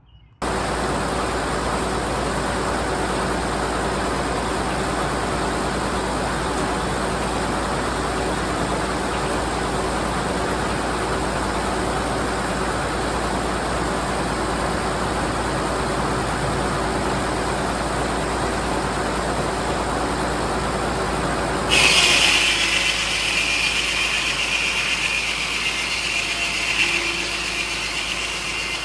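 Frick sawmill and the power unit driving it running steadily. About three-quarters of the way through, a louder, higher hiss joins in and keeps going.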